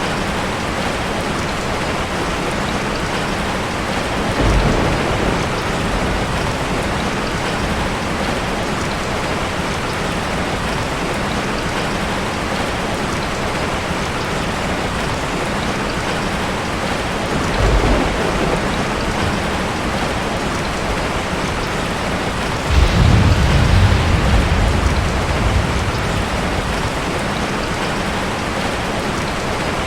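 Steady rain. Low rolls of thunder come in three times: briefly about four seconds in, again near eighteen seconds, and louder and longer a little past twenty-three seconds.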